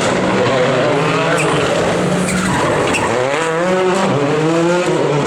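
Rally car engine running hard at high revs. Its pitch holds, drops about halfway through, then climbs and wavers up and down as the car accelerates and the driver works the throttle.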